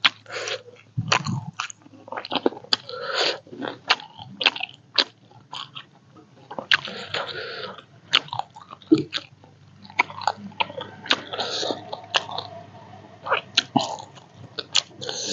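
A person eating: chewing and biting with many irregular clicks and smacks of the mouth.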